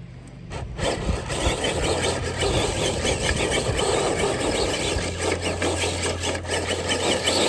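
Traxxas TRX4 RC crawler making a pull with a weighted dead sled: its electric motor and drivetrain run steadily, with crunching and scraping of tyres and sled over the ground, starting about a second in.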